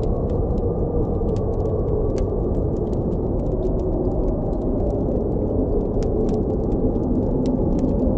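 Deep, steady blizzard wind rushing, with a campfire crackling over it: frequent small, sharp pops and snaps.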